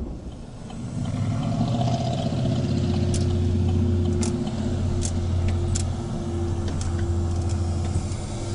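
A vehicle engine running steadily as a low hum, with a few sharp clicks over it.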